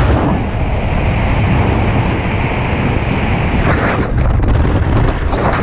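Wind buffeting the microphone in the open bed of a moving truck: a loud, steady rush of air with low rumbling, swelling in brief gusts a little under four seconds in and again near the end.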